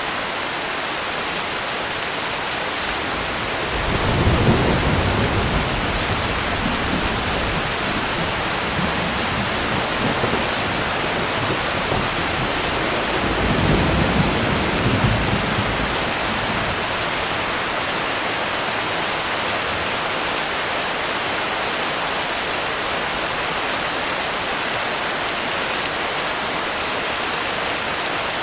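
Steady heavy rain hissing, with two rolls of distant thunder rumbling low, about four seconds in and again about thirteen seconds in, each dying away over a few seconds.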